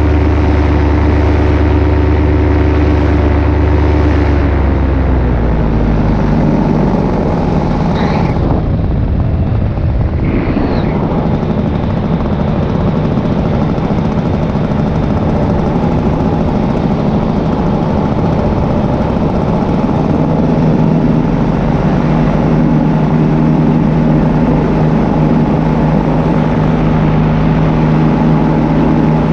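Paramotor engine and propeller running in flight. About five seconds in it is throttled back, its pitch sliding down, then it runs steadily at the lower power, with a brief rush of noise a few seconds after the change.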